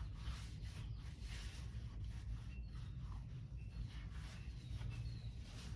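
Faint rubbing and scratching of a rag wiping down a newly installed motorcycle exhaust, over a steady low room hum.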